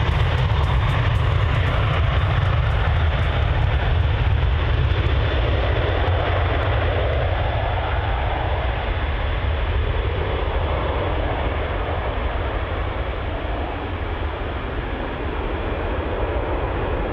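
Boeing 767-300's twin jet engines at takeoff power, a loud steady rumble that slowly fades as the airliner climbs away, the higher hiss dropping out after about six seconds.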